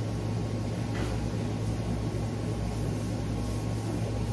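Steady low hum with even hiss, the background noise of a room, with a faint click about a second in.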